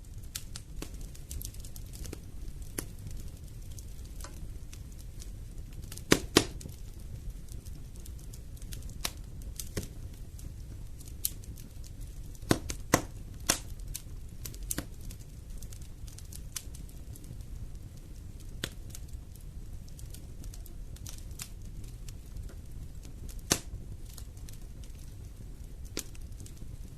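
Wood fire burning in a fireplace: irregular crackles and pops over a steady low rumble of the flames, with a few sharper, louder snaps, a pair about six seconds in, a cluster around twelve to fourteen seconds and another near twenty-four seconds.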